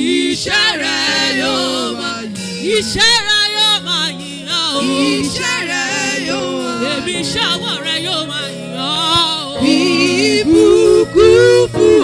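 Gospel worship song: a solo voice singing with heavy vibrato over sustained instrumental chords, the voice coming in at the start and growing louder near the end.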